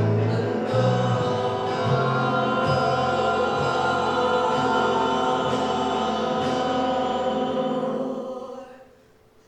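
Ensemble of voices singing long held chords over a steady low accompaniment, the closing chord dying away about eight and a half seconds in.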